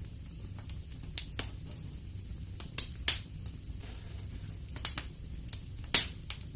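Wood fire burning in a fireplace: irregular crackles and sharp pops, loudest a little after three seconds and again near six, over a steady low rumble of flame.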